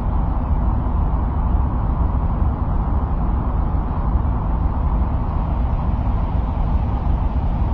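Steady deep noise, strongest in the bass and dull in the highs, with no changes or events: an ambient noise track presented as the sound of Mars.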